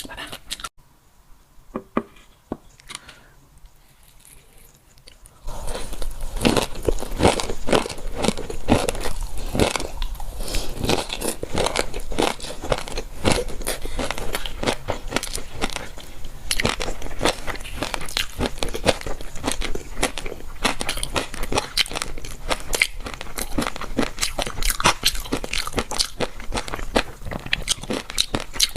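Close-miked crunchy chewing of dressed gongcai (celtuce-stem strips), a steady run of rapid crisp crunches. It starts after a few seconds of near quiet with a couple of small clicks.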